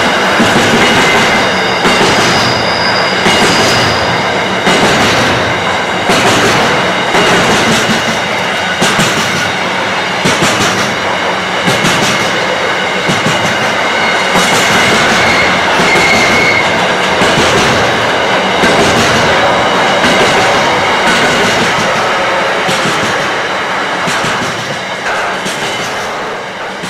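Freight train wagons rolling past on steel wheels: a regular clickety-clack of wheels over rail joints, with thin, high, steady wheel squeal above it. The sound fades near the end as the last wagon goes by.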